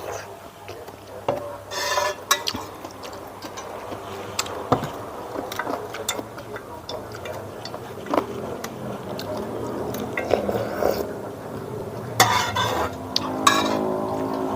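Cutlery clinking and scraping on dishes during a meal, a run of scattered light clicks with a few short scrapes.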